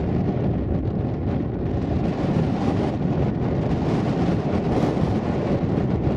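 Boeing 727-200 jet engines rumbling steadily, with strong wind buffeting the microphone.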